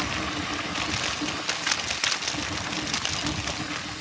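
Mountain bike riding down a dirt trail: a steady rush of wind and tyre noise with frequent small knocks and rattles from the bike over rough ground.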